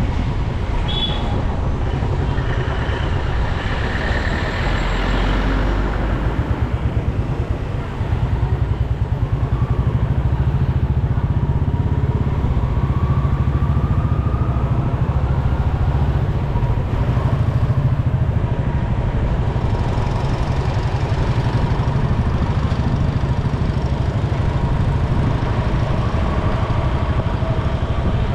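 Motorcycle engine running as the bike rides along, a steady low rumble with fast even pulsing, amid street traffic.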